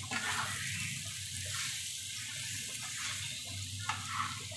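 Vegetable filling of peas, grated carrot and mashed potato sizzling steadily in oil in a kadhai over a low gas flame, with a few faint scrapes of a metal spatula about four seconds in.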